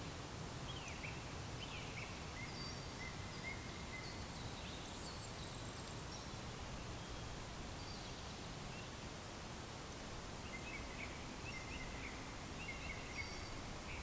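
Faint distant birdsong: scattered short high chirps and trills from small birds, livelier in the last few seconds, over a steady low background rumble.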